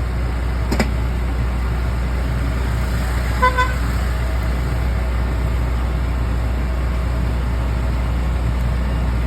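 Steady low hum of running machinery, such as a food truck's generator or exhaust fan. There is a short click just under a second in, and two quick beeps about three and a half seconds in.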